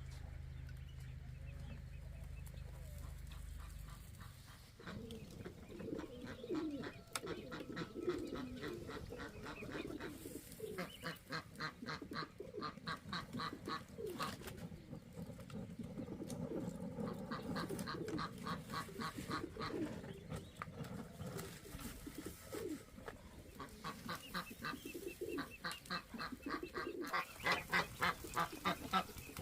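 Birds calling in quick, repeated notes that come in runs and get louder near the end. A low steady hum is heard for the first four seconds.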